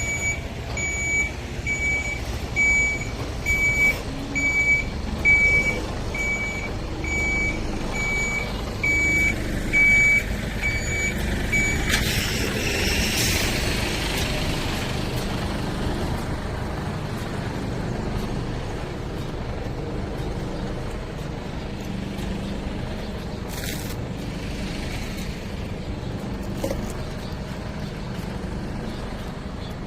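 A heavy vehicle's reversing alarm beeping evenly, about three beeps every two seconds, over its running engine. The beeping stops about twelve seconds in and a hiss of air follows for a couple of seconds, like an air brake being set, after which the engine runs on steadily.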